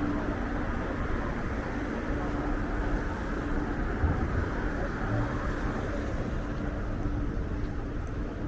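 Steady street noise of passing traffic, with strong wind rumbling on the microphone and a faint steady hum.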